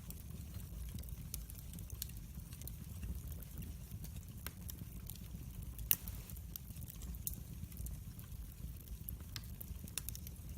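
Wood fire burning in a fireplace, with irregular sharp crackles and pops over a steady low rumble of the flames; one louder pop about six seconds in.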